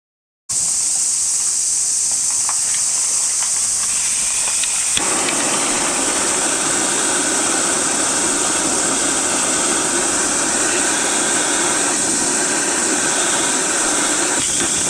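Cicada chorus: a dense, steady, high-pitched buzz. About five seconds in, a lower rushing noise joins it and keeps on.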